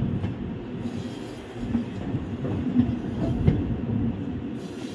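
Moving Indian Railways express train: a steady wheel-and-track rumble with irregular clacks as the coaches roll over rail joints on a curve.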